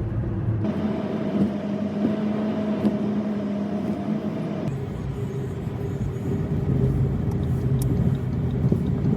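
Car driving along: steady engine and road noise with a constant drone, whose pitch changes about halfway through.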